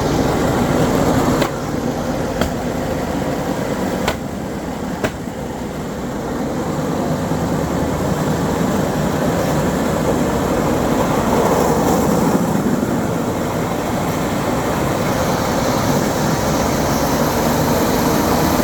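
Steady rumbling noise of a moving vehicle ride, with a few sharp clicks or knocks in the first five seconds.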